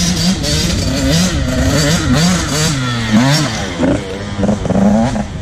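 Dirt bike engine revving up and down while riding over a rough dirt track, heard from the bike, with clatter from the bike and the ground.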